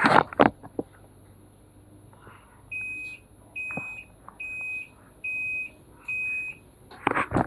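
Panasonic washing machine's control panel beeping five times, one high tone about a second apart. A loud knock comes just before the beeps start.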